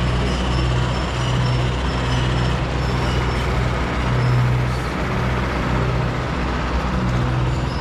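A boat engine running steadily, a low hum that swells and eases every second or so over a constant rumble.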